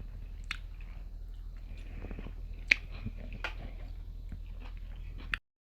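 A person biting and chewing food close up: scattered small crunches and wet clicks over a steady low hum, with one sharper crack about halfway through. The sound cuts off suddenly near the end.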